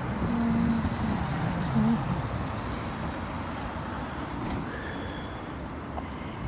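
Street traffic: motor vehicles running past with a steady low rumble of engines and tyres.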